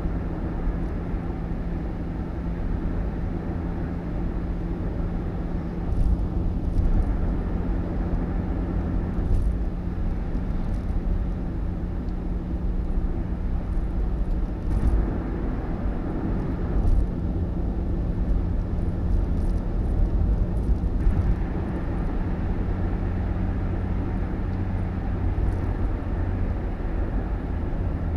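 Motor vehicle running on the road: a steady engine hum over low road rumble, with occasional bumps and rattles.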